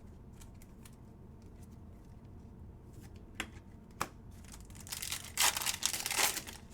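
Trading-card pack wrapper being torn open and crinkled for about a second and a half near the end, after a couple of small clicks of cards being handled.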